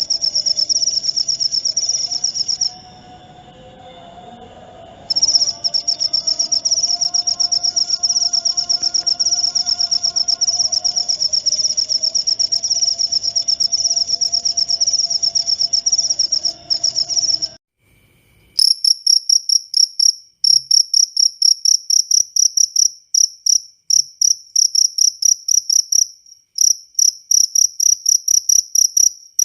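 Jangkrik jaliteng crickets singing: a continuous high-pitched trill that breaks off for a couple of seconds about three seconds in, then, after a short gap about eighteen seconds in, gives way to a run of separate sharp chirps, about three a second.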